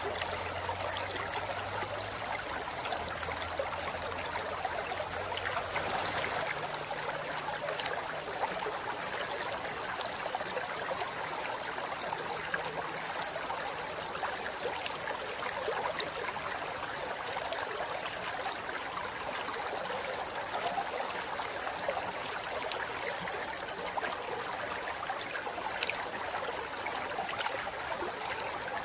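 Forest river flowing steadily over rocks, an even rush of water with light splashing and trickling.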